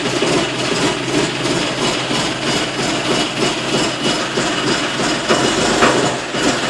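Valmet 465 tractor's diesel engine running at idle just after a cold start at −15 °C, with a steady, even clatter.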